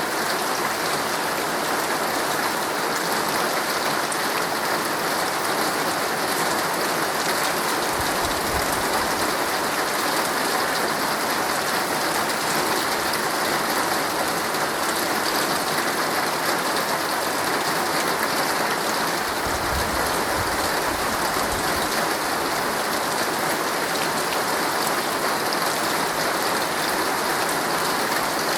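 Heavy rain drumming steadily on a tent's fabric, a dense even pattering. Two brief low rumbles come through, about eight seconds in and again near twenty seconds.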